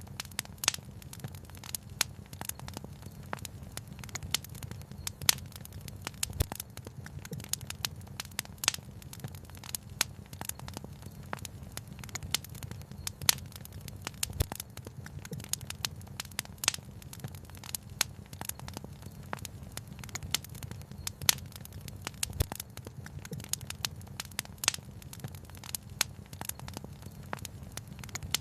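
Wood fire crackling, with irregular sharp pops and snaps, some louder than others, over a steady low rumble.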